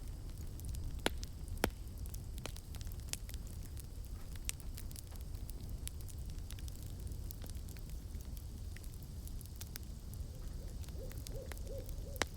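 Campfire crackling and popping, with a steady low rumble from the flames and a few sharper pops, the loudest about a second in. Near the end an owl gives a quick run of short hoots.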